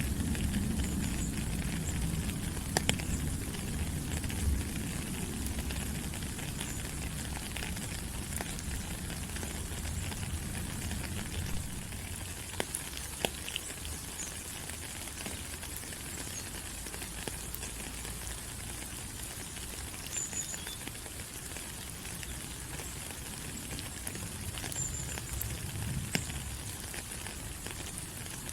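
Steady rain falling on rainforest leaves, a dense hiss with scattered drops tapping close by. A low rumble fades out over the first few seconds.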